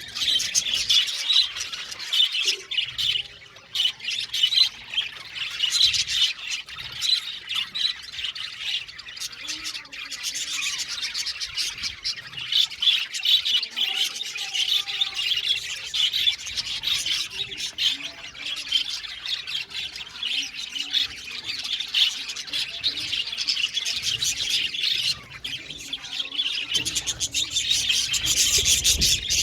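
A flock of budgerigars chirping and chattering together, many short overlapping calls and squawks without a break.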